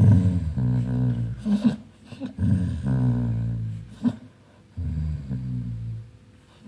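Dog growling: a string of low, drawn-out growls, each about half a second to a second long, with short breaks between them.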